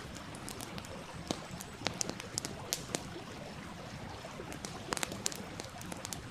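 Wood fire crackling, with sharp irregular pops over the steady rush of a stream.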